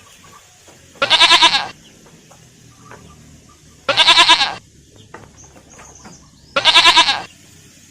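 Goat bleating three times, each a shaky, wavering bleat of under a second, spaced a few seconds apart.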